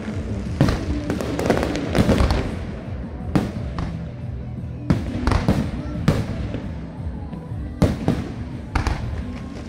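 Fireworks bursting, about ten sharp bangs at irregular intervals, over music playing steadily.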